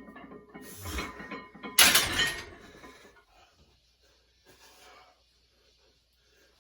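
A thump, then a sudden loud crash that dies away over about a second.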